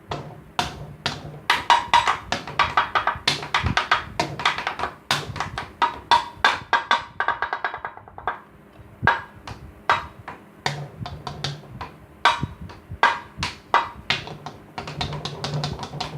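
A homemade drum built from waste materials being played: quick, uneven strikes that ring briefly, with a fast roll about halfway through.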